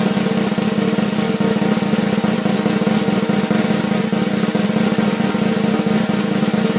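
A steady, unbroken snare drum roll, added over the picture as a sound effect.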